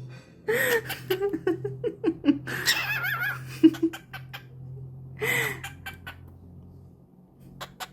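Cockatiel mimicking laughter: runs of short 'ha-ha-ha' notes falling in pitch, twice, with a warbling chirp between them, over a steady low hum.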